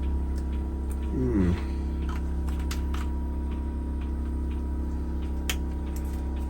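A steady low hum with several fixed tones, with a few short light clicks and taps scattered through it. A brief murmur of voice comes about a second in.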